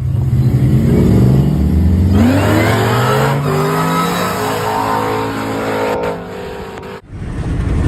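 Car engine accelerating hard: its pitch climbs steeply about two seconds in and stays high, then eases off near six seconds. The sound cuts off suddenly about seven seconds in.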